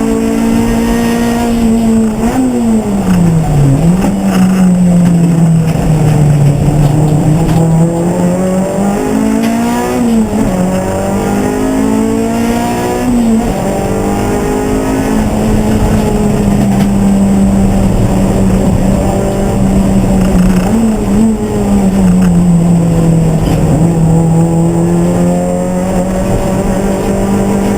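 Race car engine running hard at racing speed, its note falling and climbing back several times as the car slows for corners and accelerates out again.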